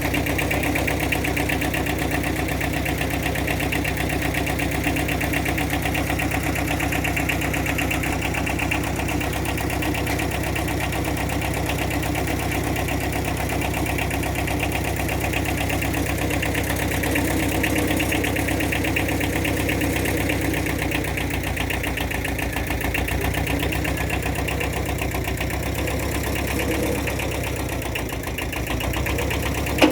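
An engine running at a steady idle, its even pulsing unchanged throughout, easing slightly in level near the end.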